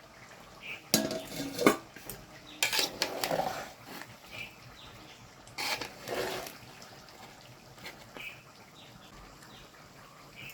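A spoon scraping and knocking against a cooking pot as a pot of chicken biryani rice is stirred, in a few separate strokes that grow fainter near the end.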